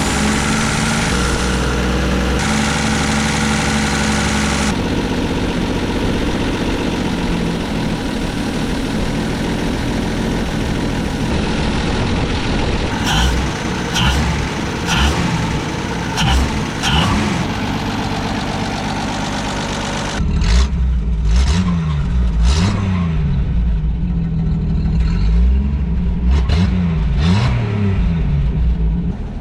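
Holden EJ's engine running on its freshly rebuilt carburettor, idling and then revved, with the throttle blipped up and down repeatedly in the last third.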